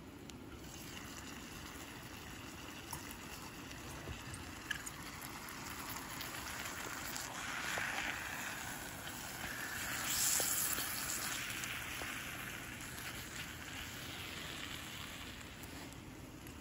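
Steak, bell peppers and onions sizzling in a stainless frying pan on a gas canister backpacking stove. The sizzle swells louder about eight seconds in and again around ten seconds, with a few light clicks.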